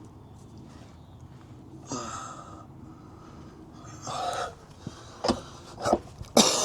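Two heavy breaths out, over a low steady hum, followed by a few sharp clicks near the end.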